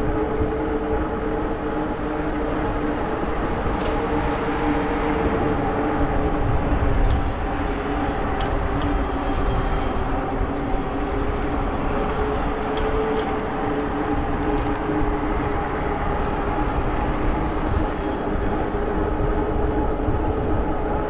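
E-bike in motion: a steady motor whine over low wind and tyre rumble, with a few sharp ticks from bumps on the trail.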